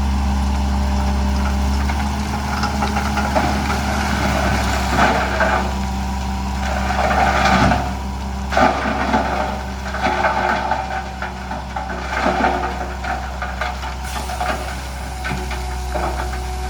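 Heavy diesel engine of earthmoving machinery running steadily at a low pitch, with irregular rattling and scraping over it.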